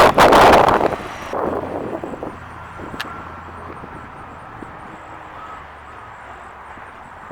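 A car driving past close by, very loud at first and then fading away about a second in as it moves off, which is plausibly the supercharged 350 V8 Camaro. A single sharp click comes about three seconds in.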